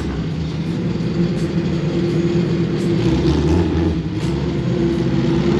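Car engine idling steadily, holding an even pitch with no revving.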